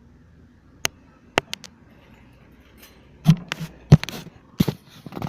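Irregular sharp knocks and clicks: a few single ones in the first two seconds, then a cluster of louder knocks between about three and five seconds in.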